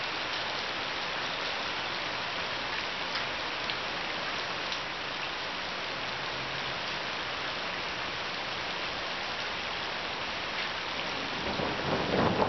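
Steady rain pouring down in a thunderstorm, an even hiss of drops hitting surfaces. Near the end a low rumble of thunder begins and builds.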